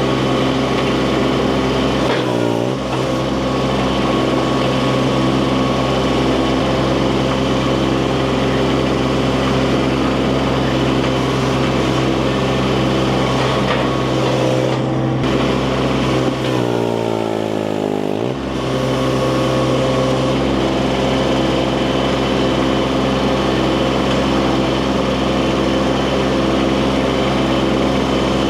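Mini skid steer engine running steadily at high throttle. Its pitch sags and recovers briefly about two seconds in, and again for a couple of seconds near the middle, as the engine lugs under load.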